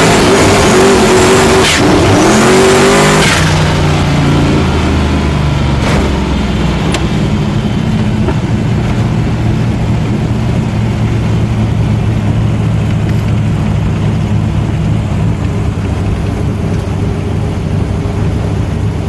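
Performance car engine revving hard with its pitch rising and falling, then settling after about three seconds into a steadier, lower drone as the car drives on.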